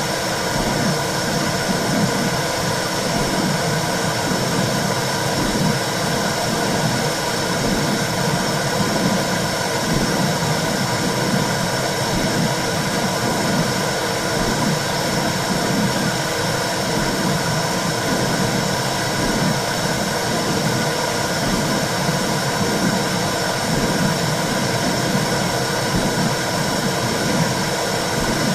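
Womb sound for soothing a baby: a steady whooshing hiss with a low, uneven pulsing rumble beneath it.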